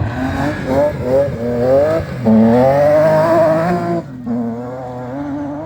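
Rally car engine accelerating hard up through the gears, its pitch rising and breaking at each shift. It holds high for over a second, then drops off suddenly about four seconds in, running lower after.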